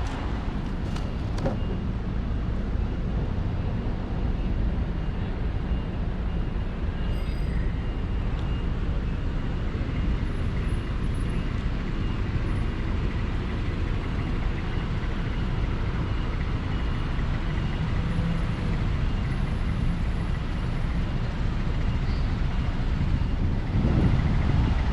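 Steady city street traffic, a continuous low rumble of passing vehicles.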